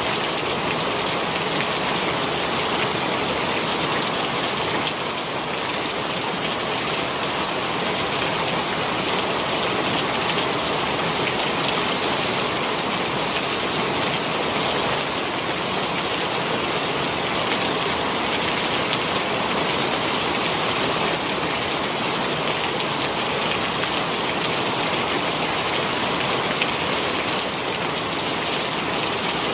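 Heavy rain pouring down steadily, a dense, even hiss of drops on surfaces.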